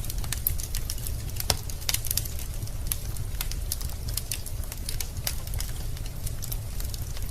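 Wood fire burning in a fireplace: a steady low rumble of the flames under dense, irregular crackling of the logs, with a few sharper pops.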